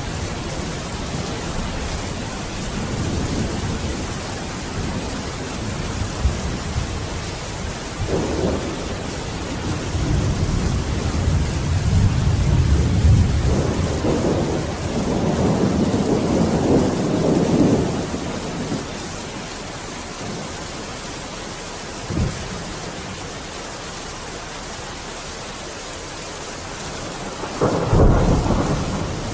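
Steady rain with rolling thunder: long low rumbles swell through the middle, then a short sharp crack and a louder thunderclap near the end.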